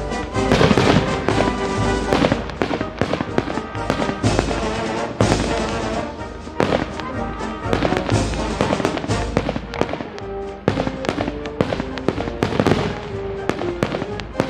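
Aerial fireworks going off in rapid succession: many sharp bangs and crackles with no gaps, with music playing underneath.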